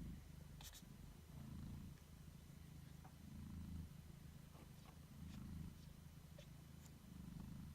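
Faint cat purring from a British Shorthair mother nursing her newborn kittens: a steady low rumble that swells about every two seconds with each breath, with scattered small clicks over it.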